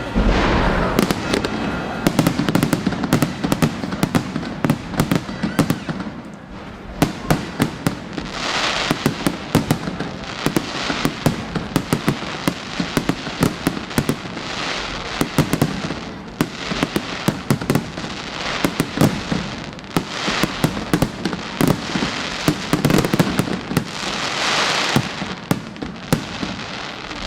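Aerial fireworks display: loud shell bursts and reports in rapid, dense succession, with several swells of rushing hiss between the bangs.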